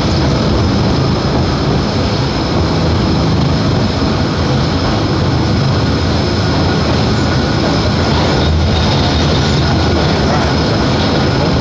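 Elevated electric trolley train running steadily along its track, heard from inside its open-sided passenger car: an even rumble of wheels and running gear, with a faint high steady whine.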